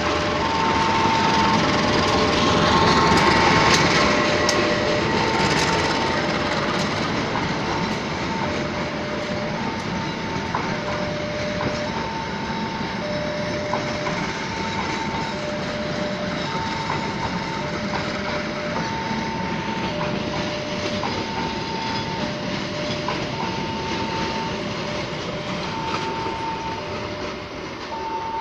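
Diesel-electric locomotive passing close by, loudest about three to four seconds in, followed by a long string of passenger coaches rolling past with wheels clacking on the rail joints. Over it a level-crossing alarm rings steadily, switching back and forth between a high and a low tone about every second.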